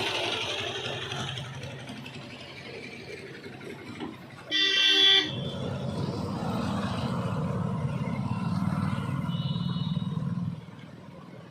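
Street traffic running past, with one loud horn blast lasting under a second about four and a half seconds in and a short, fainter honk near ten seconds. The vehicle noise drops off suddenly near the end.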